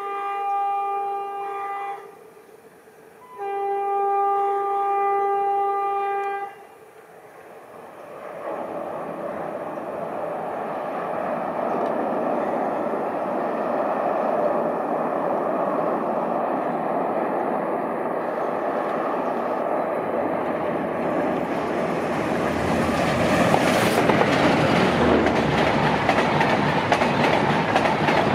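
Diesel locomotive horn sounding two long blasts, the first ending about two seconds in and the second lasting about three seconds. Then the passenger train's rumble and wheel clatter build steadily, loudest near the end as the coaches pass close by.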